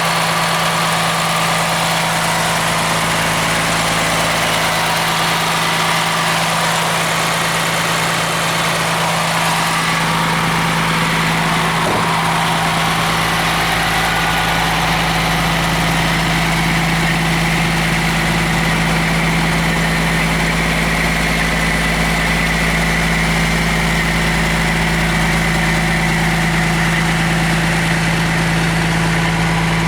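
Cummins ISM inline-six turbo diesel of a Blue Bird LTC-40 coach idling steadily, with a strong even hum.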